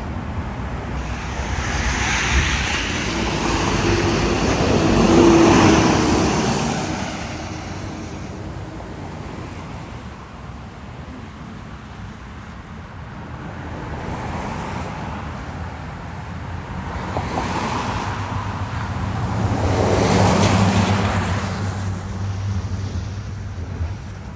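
Road vehicles passing by twice, each one swelling up and fading away: the first about five seconds in, the second near the end with a low engine hum under it.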